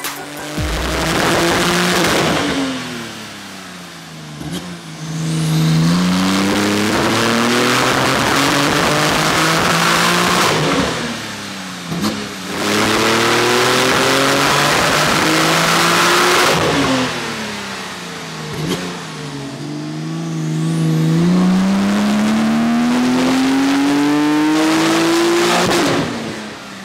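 Porsche 992 Turbo S twin-turbo flat-six with a titanium exhaust, making repeated full-throttle pulls on a hub dyno. Each pull is a long sweep rising in pitch, then falls away as the revs drop. The last pull, near the end, is the longest climb.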